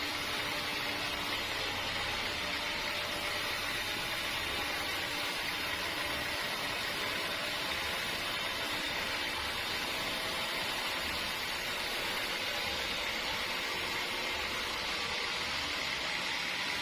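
Sawmill machinery running with a steady, unchanging mechanical hiss and hum.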